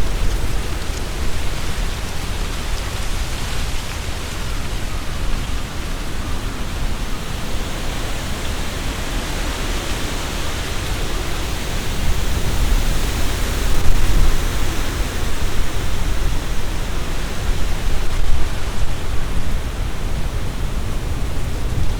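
Strong wind gusting through tree leaves, a dense rustling hiss over a low rumble. The gusts grow stronger about halfway through.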